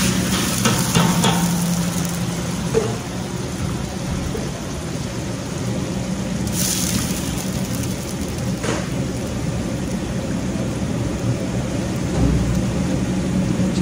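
A curry base of chopped aromatics and cumin seeds sizzling in hot oil in a large stainless-steel stockpot, with tomato purée just poured in. It is a steady frying hiss over a steady low hum, with a brief louder hiss about six and a half seconds in.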